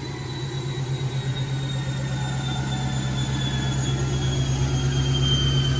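Turbocharged 5.2 L Magnum V8 of a Dodge Dakota running on a chassis dyno: a steady low drone that grows gradually louder, with a thin high whine slowly falling in pitch.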